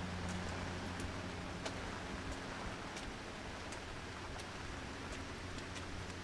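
Rain falling, with scattered sharp drips ticking on hard surfaces, over a steady low hum.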